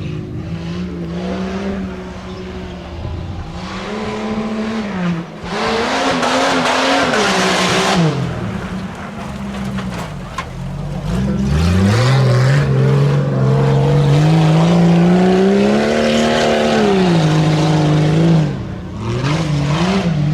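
Off-road race truck's engine revving hard through a run, its pitch climbing and dropping again and again as the throttle is worked. A loud rushing noise comes in about six seconds in, and the engine holds high revs for several seconds from about twelve seconds in.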